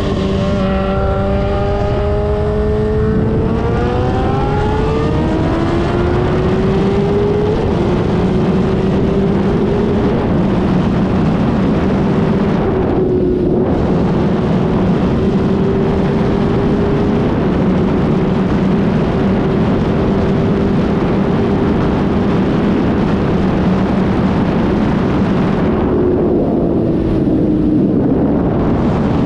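2007 Suzuki GSX-R1000 inline-four running through a Yoshimura exhaust with the dB killer removed. It accelerates hard, its pitch climbing and dropping back at two upshifts in the first several seconds, then holds a steady high-revving cruise, and the revs dip briefly near the end.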